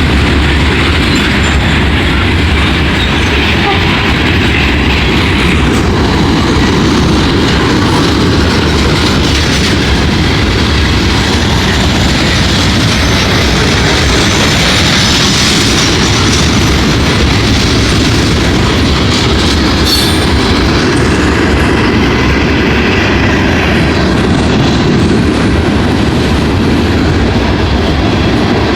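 CSX freight train's cars rolling steadily past, wheels clacking over the rail joints, with a brief rise in high metallic wheel noise around the middle.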